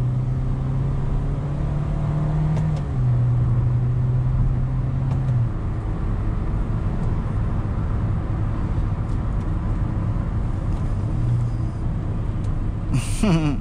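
In-cabin sound of a 2023 Hyundai Stargazer's four-cylinder petrol engine pulling hard with its IVT in manual mode. The engine note climbs, then drops a step about three seconds in as a simulated gear changes, and eases away after about five seconds, leaving tyre and road noise.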